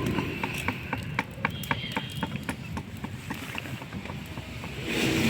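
Wood and charcoal cooking fire crackling, with irregular sharp pops and snaps, and a louder rush of noise near the end.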